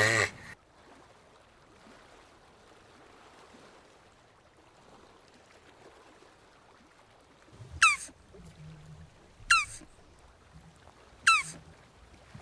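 Jabuti tortoise calling: three short, high squeaks, each dropping quickly in pitch, about a second and a half apart, starting about eight seconds in.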